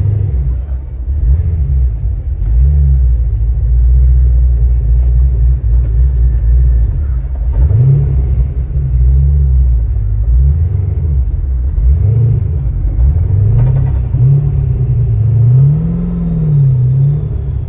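Twin-turbo car engine revving over and over, its loud low note climbing and dropping in pitch again and again between steadier stretches.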